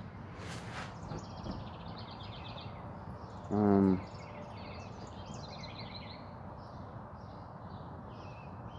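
Small birds chirping in the background over a steady hiss, with a short hum from a man's voice about three and a half seconds in.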